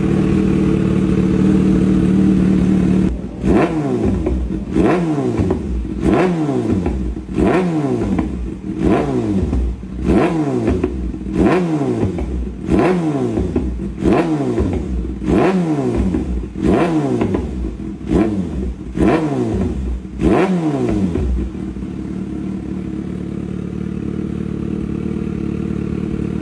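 Superbike engine through its exhaust, held at steady revs for about three seconds. It is then blipped about a dozen times, roughly once every second and a half, each rev falling back quickly. Near the end it settles to a steady idle.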